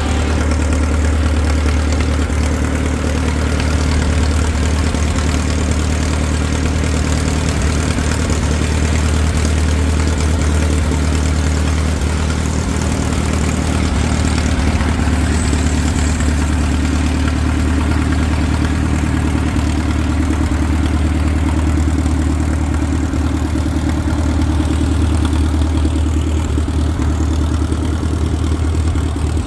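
Tractor engine idling steadily, a low even note that holds without revving.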